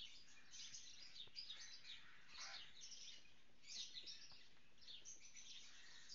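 Faint, continuous chirping of many small birds, the calls overlapping in a busy chatter, with a few soft ticks.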